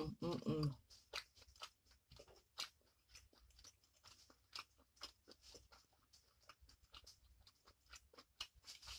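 A person chewing a bite of New York strip steak dipped in cheese sauce, close to the microphone: many short, irregular wet mouth clicks and smacks. A short hummed "mm" comes in the first second.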